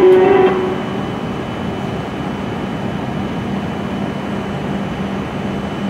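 W7 series Shinkansen train standing at the platform, its onboard equipment giving a steady whir with a faint low hum. A short tone sounds in the first half-second.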